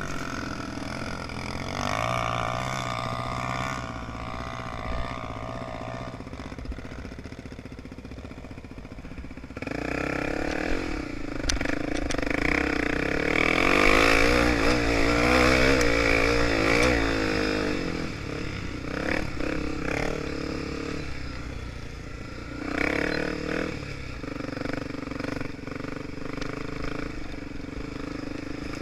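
Honda Tornado 250's single-cylinder four-stroke engine running under varying throttle, its pitch rising and falling as the motorcycle is ridden off-road. The engine is loudest and revs highest around the middle.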